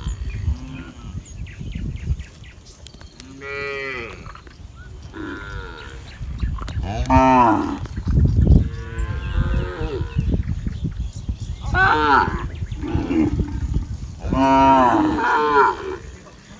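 Several cattle mooing: about five separate calls, some long and sliding down in pitch, heard over a steady low rumble.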